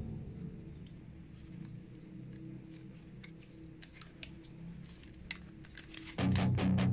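Faint, scattered clicks and taps of plastic toy parts being handled over a low hum. Loud guitar music comes in about six seconds in.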